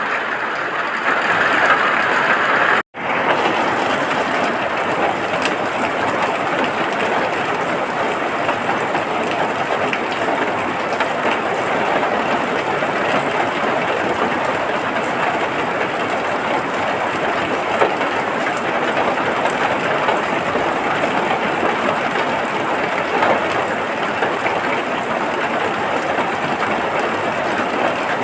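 Steady rain, an even wash of noise, broken by a momentary dropout about three seconds in.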